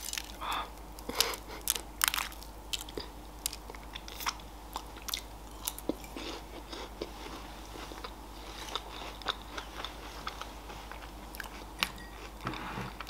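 Close-miked chewing of a Raffaello coconut-almond candy. There is a sharp crack as the candy is pulled apart at the start, then irregular crisp crunches of its wafer shell as it is chewed.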